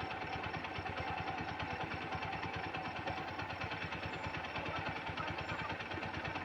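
Swaraj tractor's diesel engine running steadily, with an even, rapid chugging beat.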